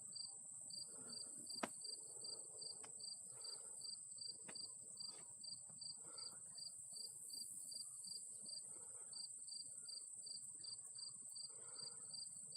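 Field insects chirping: a steady high buzz with a regular chirp about three times a second. A single sharp click about a second and a half in.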